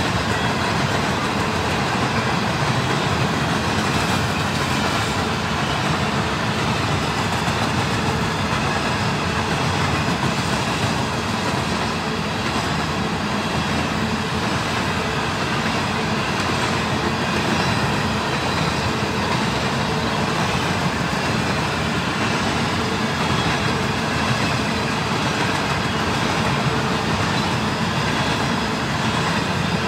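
Freight train's covered and coal hopper cars rolling past on steel rails: a steady, continuous wheel-and-rail rumble and rattle.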